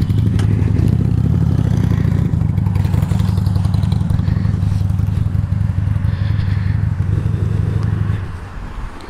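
Motorcycle engine running steadily at low speed, then dying away near the end as it is shut off.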